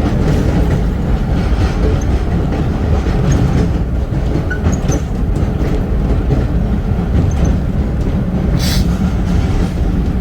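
Vintage R1-R9 subway cars running along the track: a steady, loud rumble with wheels clicking over rail joints and faint brief wheel squeals. A short hiss comes near the end.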